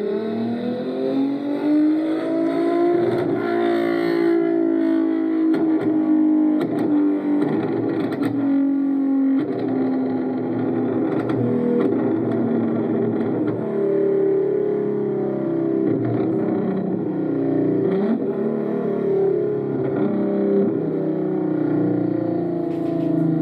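Sports car engine revving hard at full throttle, its pitch climbing over the first few seconds and then held high with small dips and rises.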